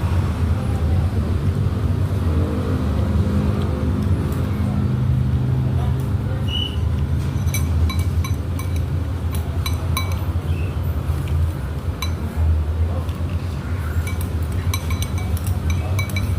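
Spoons and dishes clinking in many light, irregular taps, more often in the second half, over a steady low rumble and faint background voices.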